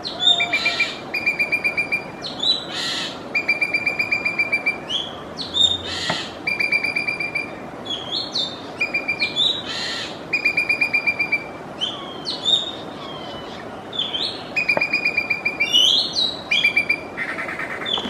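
Common green magpie calling: repeated trains of quick, evenly spaced high notes, about ten a second, mixed with short rising whistles and harsh rasping calls.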